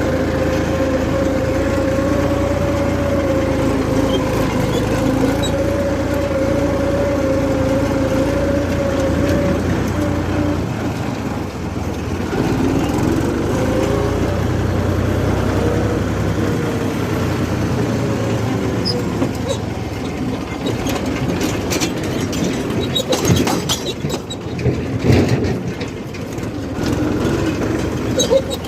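Diesel engine of a heavy working vehicle running at a steady pitch, then rising and falling in pitch as it is revved. In the last several seconds it comes with knocks and rattling.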